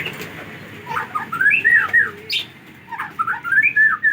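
White-rumped shama (Aceh murai batu) singing: two short phrases of gliding whistled notes, about a second in and again near the end, with a sharp click between them.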